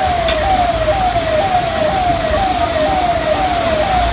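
Siren sounding in a fast repeating cycle, each note falling quickly in pitch, about two a second, over a steady rushing noise.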